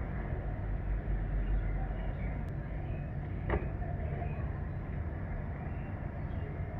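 Steady low rumble of a moving vehicle, with one brief sharp sound about three and a half seconds in.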